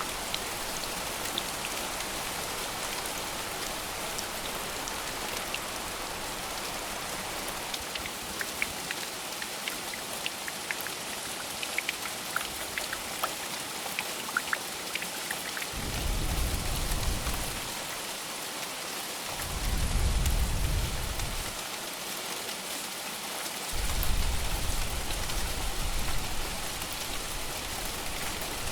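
Steady rain falling, with scattered sharp drop ticks. Three low rumbles of distant thunder a few seconds apart in the second half.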